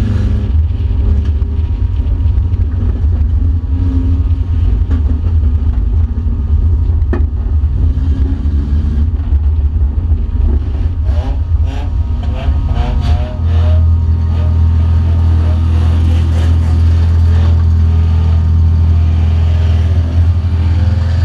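Mercedes banger racing car's engine running hard at racing speed, heard from inside the cabin as a heavy low rumble. About halfway through comes a cluster of sharp knocks and rattles, after which the rumble turns steadier and louder.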